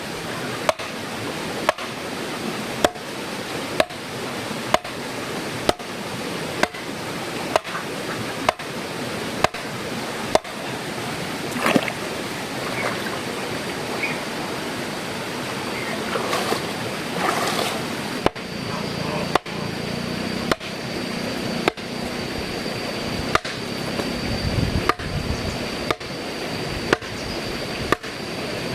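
Steady rush of water with a sharp knock repeating about once a second at a very even pace.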